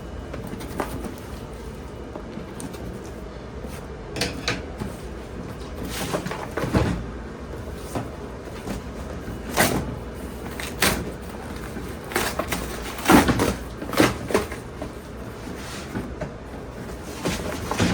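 Irregular knocks and scrapes of objects being handled, over a steady low hum, loudest in a cluster of knocks about two-thirds of the way through.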